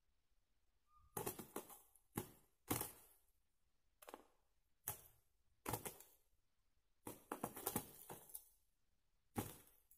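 Faint, irregular clusters of sharp taps and rustles, about eight bursts, some single and some in quick runs, with short gaps of quiet between them.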